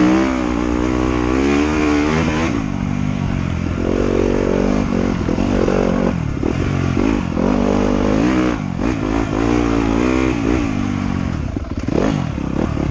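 Trail motorcycle engine under a rider's throttle, its pitch climbing and dropping over and over as the rider gets on and off the gas.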